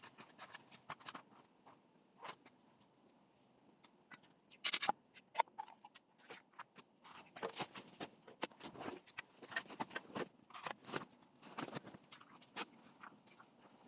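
Irregular close-up handling noises: clicks, light knocks and scrapes of objects being moved, coming thicker in the second half.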